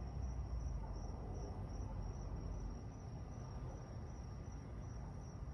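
Crickets chirping in a steady, high, slightly pulsing trill, over a low background rumble that eases off about halfway through.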